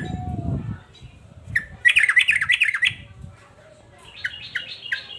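Male yellow-vented bulbul (trucukan) calling: a loud burst of rapid chattering notes about two seconds in, then a quieter run of short notes near the end. A lower, rougher sound fades out within the first second.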